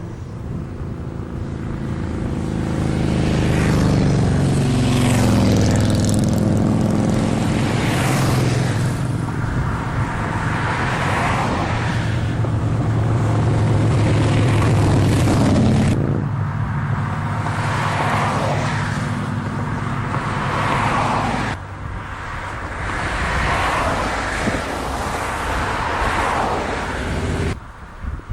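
Motorcycle engines running and passing by, their pitch rising and falling as the bikes go past, with the sound cutting abruptly a few times.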